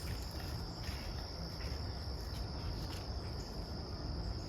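Insects trilling steadily at one high pitch, with a low rumble underneath.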